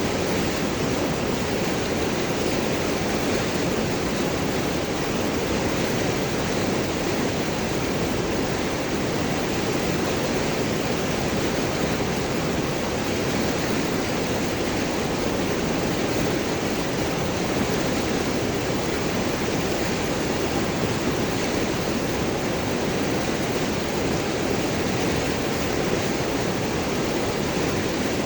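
River water flowing and gurgling over and around large rocks, a steady, even rush with no pauses.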